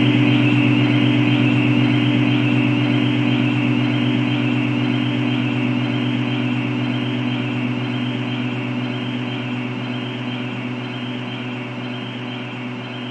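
A steady mechanical drone with a strong low hum and a constant hiss above it, gradually fading out.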